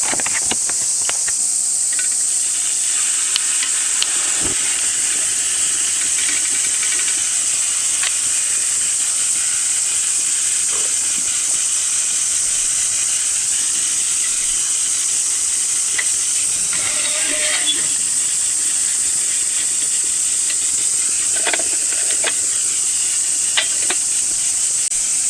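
Dense cicada chorus, a steady high-pitched hiss that never lets up, with a few light clicks and knocks of cooking gear being handled.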